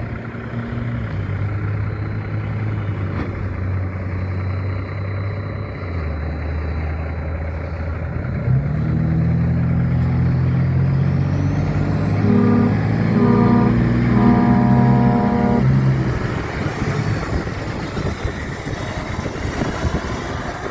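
A heavy truck's diesel engine running steadily, then growing louder and higher in pitch about halfway through as it pulls harder, with a thin high whine rising over it.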